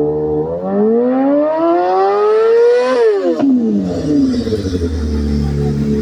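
Motorcycle engine revving: the pitch climbs steadily for about two seconds, drops sharply as the throttle is released, then settles into steady running.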